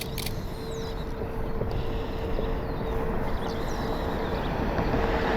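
Car driving: steady low road and engine rumble with a steady hum, growing slowly louder.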